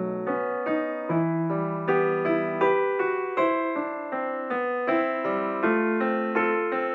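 Background piano music: a gentle melody of single struck notes and chords, each ringing and fading, about two notes a second.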